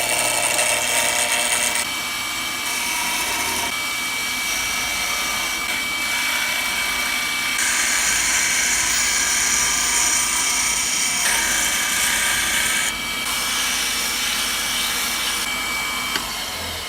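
Electric power tool running continuously, a steady high whine over a hiss of cutting noise. The noise changes abruptly every few seconds.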